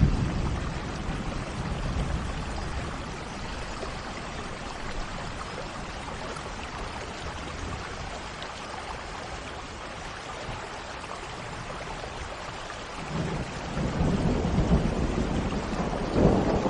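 Steady rushing water noise, like rain or a stream, with a low rumble at the start and again building in the last few seconds.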